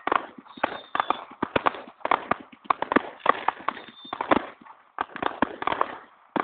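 Fireworks crackling: a dense, irregular string of sharp cracks and pops of varying loudness, with brief faint hissing between them.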